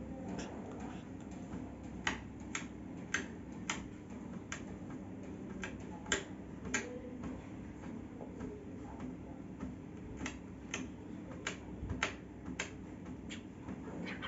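Sharp, irregular clicks and taps, about two a second with a lull in the middle: a cockatiel pecking and nibbling at a toy with its beak.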